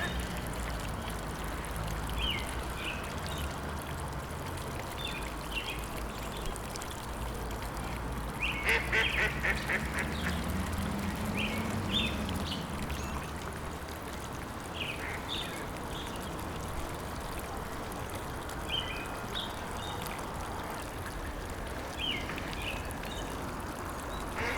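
Birds calling in short scattered calls over a steady low background, with one quick run of rapid calls about nine seconds in.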